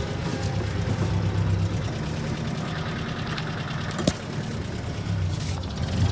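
1962 Jeep M170's four-cylinder F-head engine running steadily at low speed, with a single sharp click about four seconds in.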